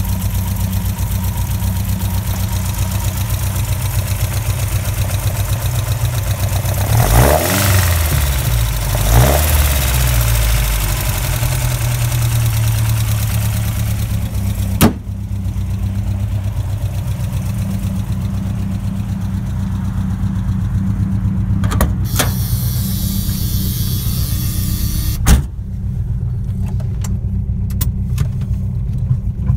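Modified 1980 Ford Fiesta's four-cylinder engine with twin side-draft carburettors idling steadily, blipped up and back down twice about a quarter of the way in. A sharp slam about halfway through is the bonnet shutting, and two more knocks follow later. Near the end the idle is heard from inside the cabin, duller.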